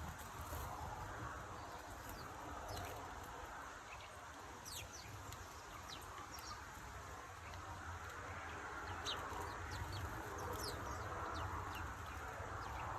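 Small birds chirping: scattered short, high calls that sweep downward in pitch, over a steady low background rumble.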